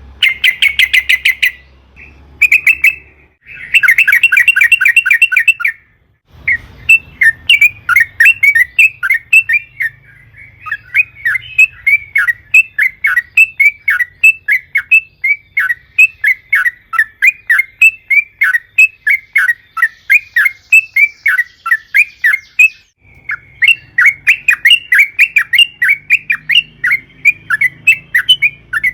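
Yellow-vented bulbul (trucukan) singing in fast runs of short, repeated chirps: a few short bursts at first, then one long continuous run with a brief pause near the end.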